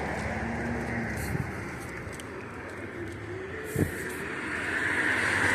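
Street traffic noise, with a car approaching and growing louder near the end, and a short knock about four seconds in.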